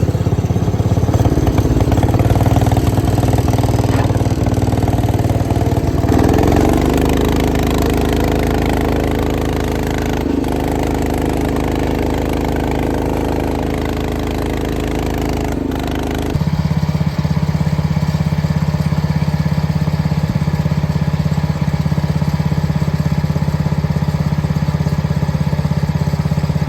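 Small tractor engine running loud through a nearly straight-piped exhaust. About six seconds in its pitch rises as it speeds up, and about sixteen seconds in the sound changes abruptly to a different steady running note.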